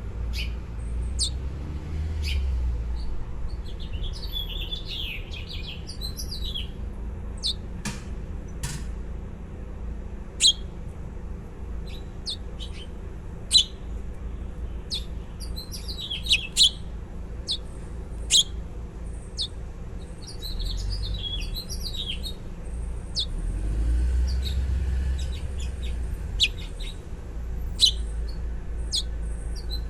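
Baby birds chirping: many short, sharp high chirps throughout, with bursts of busier chirping several times, over a low rumble.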